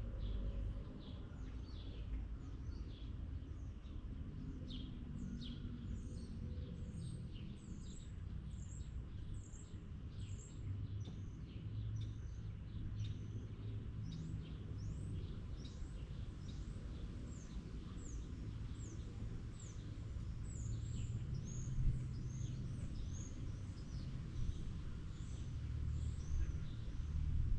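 Birds chirping: a long series of short, high, downward-sweeping chirps, about two a second, over a low steady background rumble.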